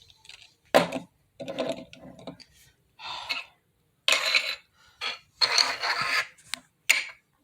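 A sharp click about a second in, then a string of short scraping and rubbing noises: objects being handled and moved on a surface.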